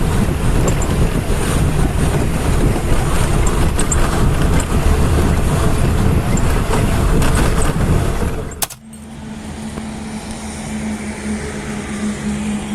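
Bus running on the road: a loud, steady low rumble of engine and road noise. It cuts off abruptly about two-thirds of the way in, and a quieter steady low hum follows.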